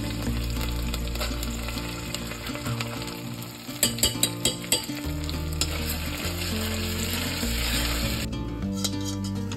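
Tomato paste sizzling in hot olive oil and garlic in a stainless steel saucepan as it is stirred in with a spoon. Several sharp clicks of the spoon against the pan about four seconds in.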